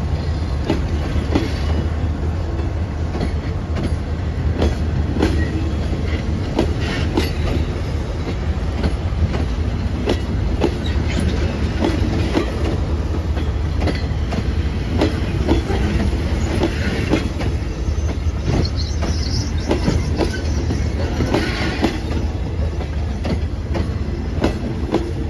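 Passenger coaches of a departing train rolling past, wheels clacking over rail joints over a steady low rumble, with a couple of brief wheel squeals in the last third.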